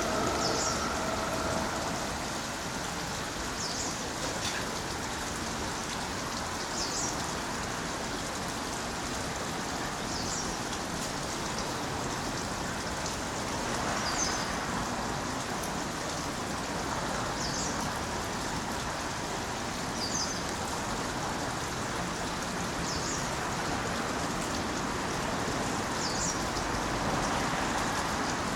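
Steady rain falling, with a short high chirp repeating about every three seconds.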